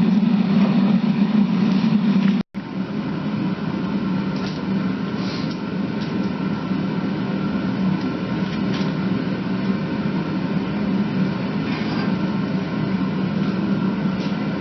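Melting furnace roaring steadily while it melts aluminum for casting, with a brief cut-out about two and a half seconds in.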